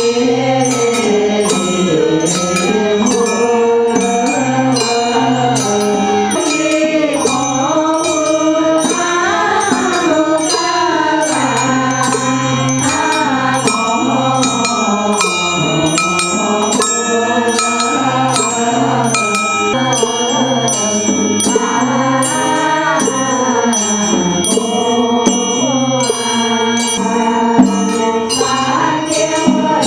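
Voices singing a melodic Buddhist chant over a steady, regular percussion beat.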